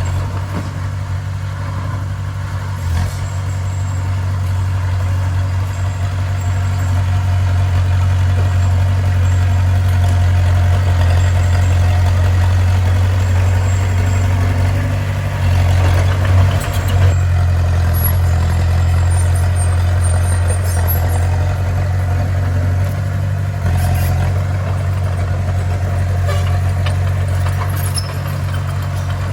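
Bulldozer's heavy diesel engine running steadily with a deep, even rumble, with a few short knocks along the way.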